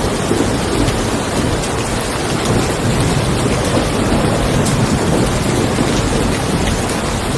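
Steady rain falling on a car, with scattered sharper drop hits, over a continuous low rumble of thunder.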